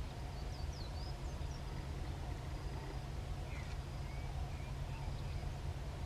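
Small birds chirping a few short notes over a steady low rumble: one cluster of high chirps about a second in, and lower ones around four seconds in.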